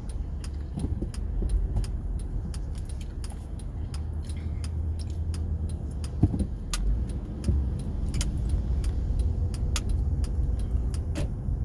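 Inside a moving SUV: a steady low rumble of engine and road, with many light clicks and ticks scattered throughout and a sharper knock about six seconds in.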